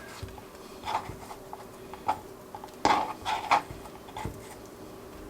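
Kitchen knife and dishes knocking and clinking: about half a dozen short taps and clicks, scattered a second or so apart.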